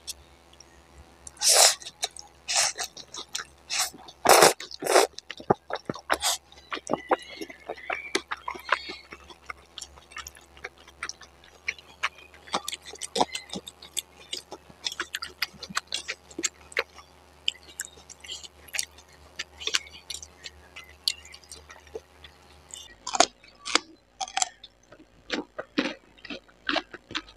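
Close-up chewing and crunching of crisp raw lettuce and cucumber, with a run of loud crunches in the first few seconds, then smaller irregular chewing clicks.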